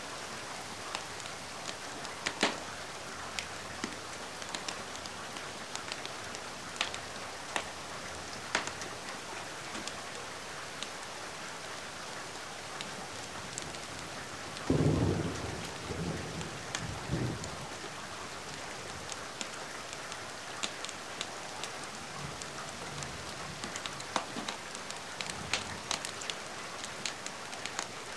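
Steady rain with scattered sharp crackles and pops from a wood fire. About halfway through, a low rumble of thunder swells and fades over a couple of seconds.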